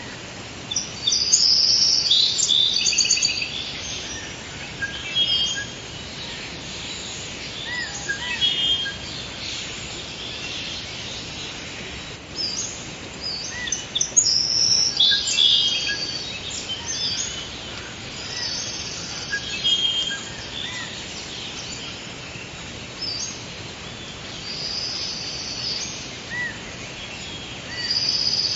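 Forest birds singing and calling, several at once, in bursts of high chirps and trills over a steady background hiss; the song is busiest in the first few seconds and again about halfway through.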